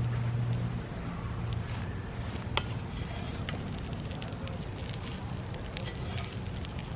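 Wood fire in a fire pit crackling, with scattered small pops and one sharp pop about two and a half seconds in. A low hum fades out in the first second, and a thin steady high tone runs under it.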